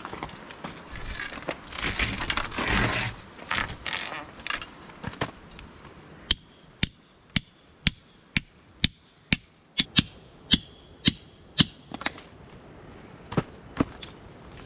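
Tent pegs being hammered into the ground: rustling and handling noise, then about a dozen sharp strikes roughly two a second, each with a metallic ring, and two more strikes near the end.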